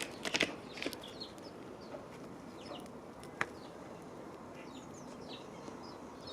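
Small garden birds giving short, high chirps scattered throughout, over a steady outdoor hiss. A few sharp clicks come at the very start, and one lone click about three and a half seconds in.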